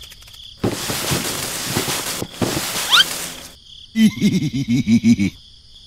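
Cartoon-style sound effects: a hiss of noise, broken once, with a quick rising squeak near its end. About four seconds in comes a rapid run of short pitched chattering sounds, about six a second, like a tiny character's gibberish voice.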